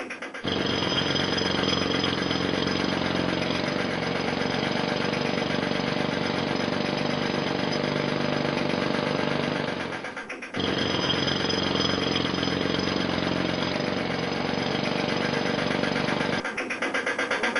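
Jackhammer hammering in two long runs, with a short break about ten seconds in.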